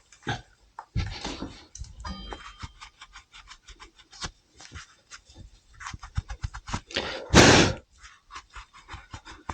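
Rag wiping and rubbing over a motorcycle brake caliper as it is cleaned, in a quick series of short strokes, with a louder brief rush of noise about seven seconds in.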